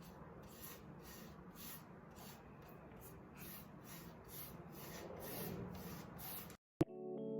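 Faint, even rubbing strokes on a surface, about two and a half a second, that stop abruptly near the end, where piano music comes in.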